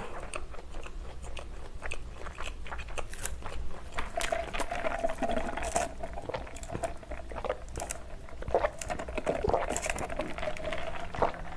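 Close-miked chewing of a mouthful of burger, with many small wet mouth clicks. From about four seconds in, a steady sipping of a drink through a straw runs under the chewing until near the end.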